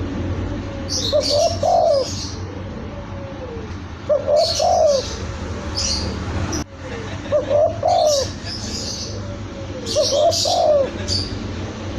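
Spotted dove (tekukur) cooing: a short phrase repeated four times, about every three seconds, with high chirps from other birds alongside.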